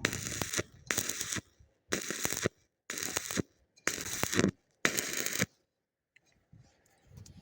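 Electric arc welding crackling in about six short bursts, each about half a second long and roughly a second apart, stopping about five and a half seconds in; the pattern fits tack welds being struck.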